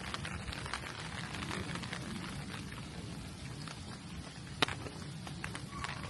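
Rain falling, heard as a steady hiss with many small drop ticks, over a low steady rumble. One sharp tap stands out about four and a half seconds in.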